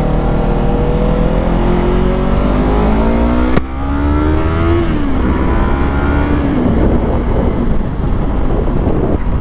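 Sportbike engine accelerating, its pitch rising steadily for about three and a half seconds. A sharp click and a brief dip mark an upshift, then it pulls again before easing off and falling in pitch.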